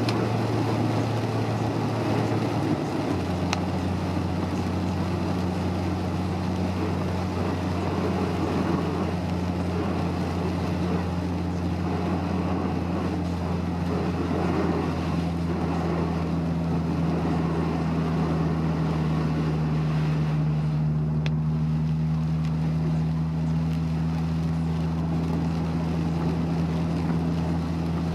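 Honda S2000's four-cylinder engine running steadily under way, heard inside the cabin over a constant rush of road and wind noise. The engine note steps down slightly about three seconds in.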